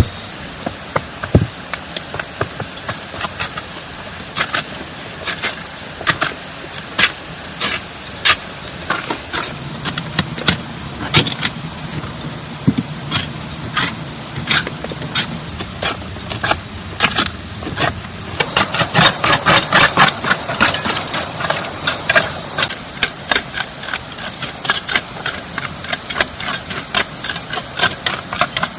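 Irregular sharp taps and knocks over a steady hiss, coming faster and thicker about two-thirds of the way through.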